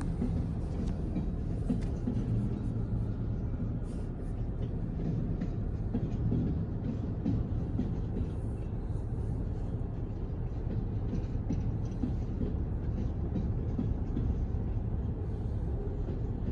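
Train rolling through a crossing: a steady low rumble with faint scattered clicks.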